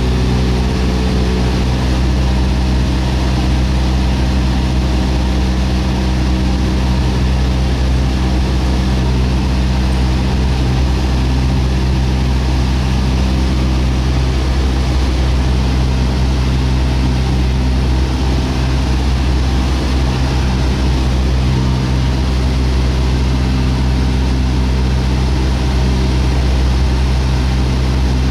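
A loud, steady engine hum with several fixed low tones and a hiss over them, unchanging throughout.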